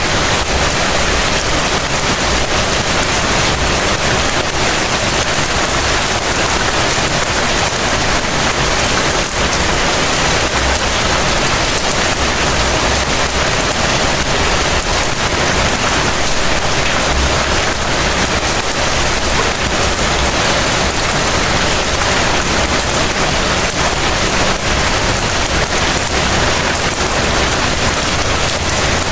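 Heavy rain falling steadily: a dense, even hiss with a low rumble underneath that swells and fades.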